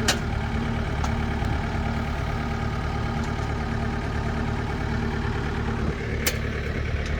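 Engine running steadily at one speed, with a sharp click at the very start and another about six seconds in.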